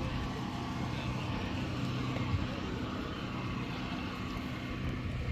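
A car engine idling steadily, with a low, even hum.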